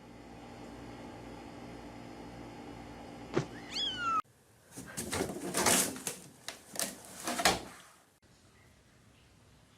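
Domestic cat vocalising: a short meow falling in pitch, then, after an abrupt change in the sound, a run of louder cat cries over about three seconds, over a steady hum at the start.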